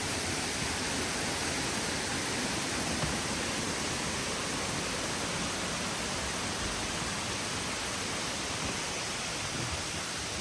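Steady, even rush of water cascading down a waterfall stream.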